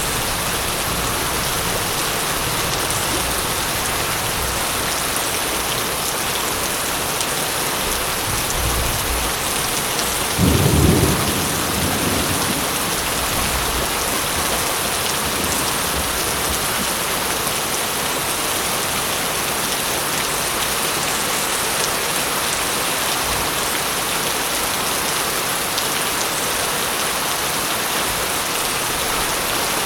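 Steady rain falling, with a short clap of thunder rumbling low about a third of the way in and softer distant rumbles before it.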